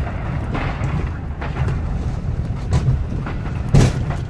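Ford F-250's 6.7-litre Powerstroke V8 turbo-diesel running steadily as the truck moves off with its snowplow. Scattered knocks come through it, with one loud thump a little before the end.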